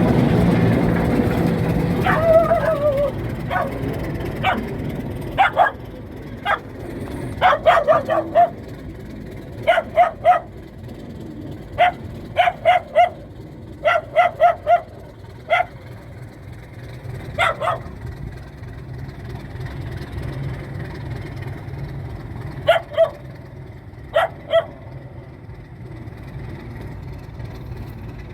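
A dog barking repeatedly in short clusters of two to four barks, over the low rumble of a diesel locomotive that is louder for the first couple of seconds and then settles to a quieter steady running.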